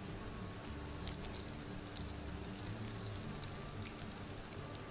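Eggplant frying in hot oil in a pan: a steady, fairly quiet sizzle scattered with small crackles and pops.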